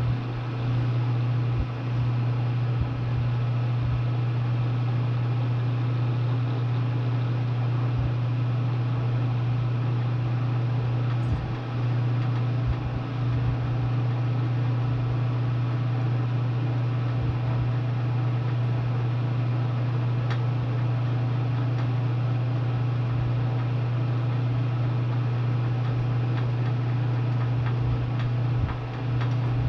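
Bridgeport milling machine running a 4.5-inch bi-metal hole saw into a steel tube, with a steady loud low hum and a constant hiss of cutting over it, broken by faint scattered ticks.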